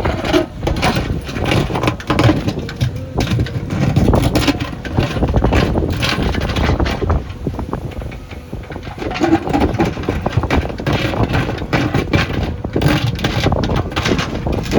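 JCB backhoe loader's diesel engine working, with an uneven, rumbling level and frequent irregular knocks and clatter.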